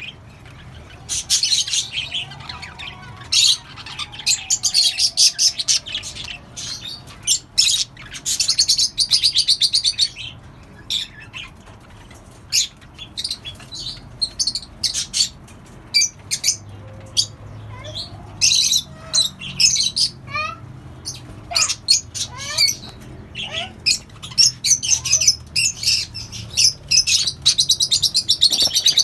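A colony of small pet parrots (budgerigars, lovebirds and cockatiels) chirping and chattering in a steady stream of high, quick calls. A few short rising whistles come around twenty seconds in.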